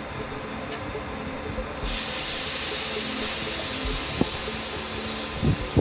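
Train on the tracks: a low rumble, then a sudden steady hiss that sets in about two seconds in and holds, with a few sharp knocks near the end.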